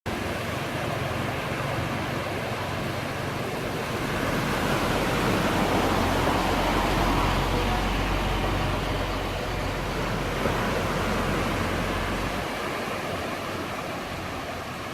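A motor vehicle passing on a road: engine hum and road noise rise to a peak about halfway through and then fade, the engine's low hum dying away near the end.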